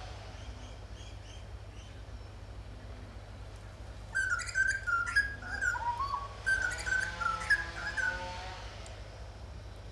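Birds calling: two bursts of chirps and warbling notes, starting about four seconds in and lasting about four seconds, over a faint steady low hum.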